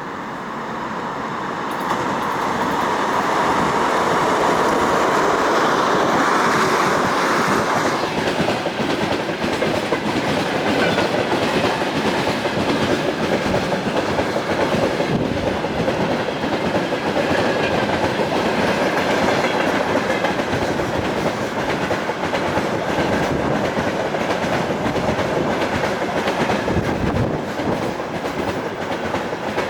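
2TE116 twin-section diesel locomotive passing close by, its diesel engines loud for the first several seconds, followed by a long train of tank cars rolling past with steady clickety-clack of wheels over the rail joints.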